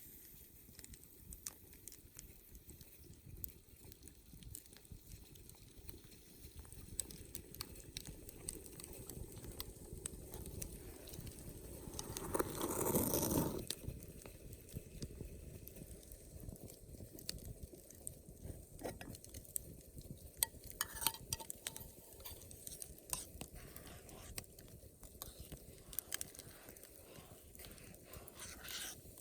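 Wood campfire crackling, with many small irregular snaps and pops over a low rumble. About halfway through comes a louder rushing burst lasting about a second and a half.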